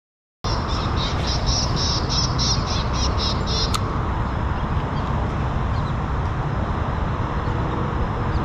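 A songbird calling in a quick series of short, high repeated chirps, about four a second, for some three seconds, then fainter. It is heard over steady outdoor background noise that cuts in suddenly about half a second in.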